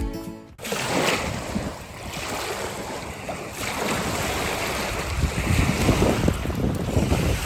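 Wind rushing and buffeting the microphone in a steady rush, with a sound like waves; background music cuts off about half a second in.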